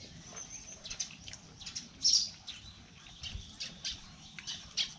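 Birds chirping in quick, short high notes, with one louder squawk about two seconds in.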